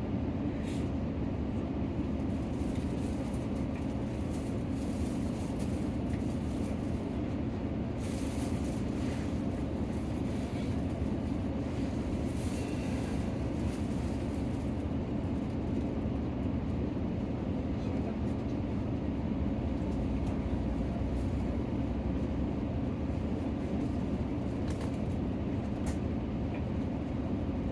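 Inside the cabin of a Nissan Diesel PKG-RA274KAN city bus on the move: a steady diesel engine drone and road rumble. There is a brief hiss higher up about a third of the way in.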